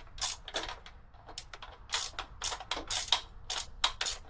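Hand ratchet wrench clicking on its back-swings while loosening a fastener, in quick irregular clicks of about three or four a second, often in pairs.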